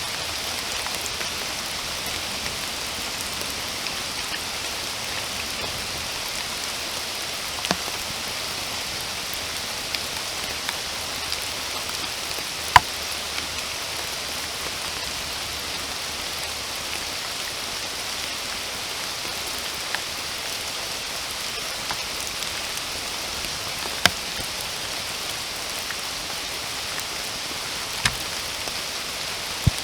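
Steady rain, an even hiss, with a few louder single drops striking close by, the sharpest about 13 and 24 seconds in.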